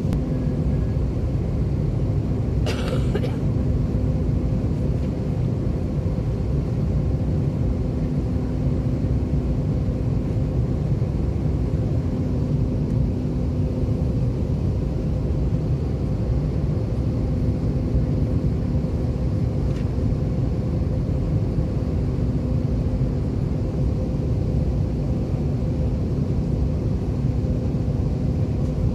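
Steady low rumble of an Airbus A320 airliner cabin, engine and airflow noise with a constant hum. A brief sharp clatter about three seconds in.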